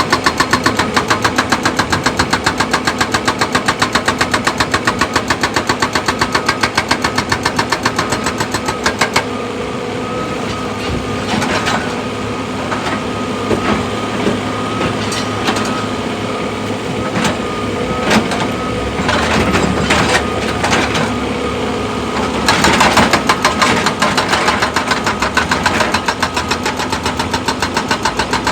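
Excavator's diesel engine running under load, with long stretches of fast, even pounding at the start and again from about two-thirds of the way in. Between them the running is steadier, with scattered sharp knocks.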